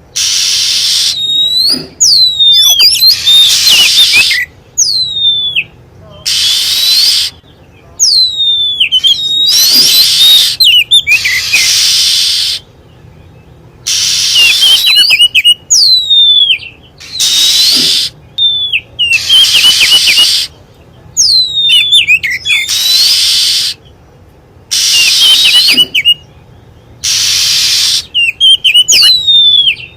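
Oriental magpie-robin lure-call recording: harsh, noisy rasps alternating with quick down-slurred whistles and short chirps, repeating in a regular pattern every few seconds.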